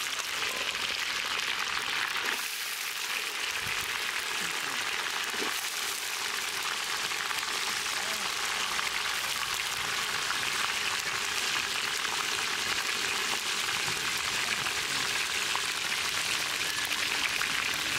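Garlic cloves and pieces of shallot frying in a pan of hot oil: a steady sizzle.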